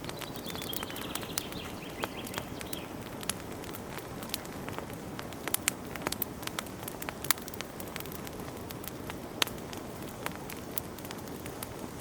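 Wood fire in a fireplace crackling: a steady low rustle of burning, with frequent, irregular sharp pops and snaps. A faint high whistle sounds for the first few seconds.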